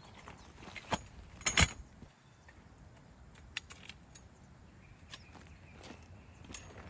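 A few scattered sharp clicks and knocks of small objects being handled, the loudest a quick pair about a second and a half in, over a low steady background.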